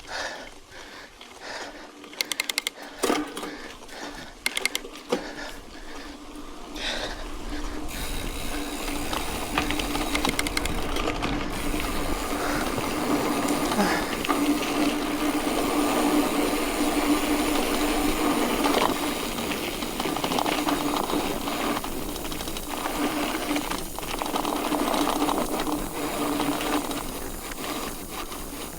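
Mountain bike rolling on a dirt road: its tyres and moving parts make scattered sharp clicks for the first few seconds. From about eight seconds in, a louder, steady rolling noise with a hum sets in as the bike picks up speed.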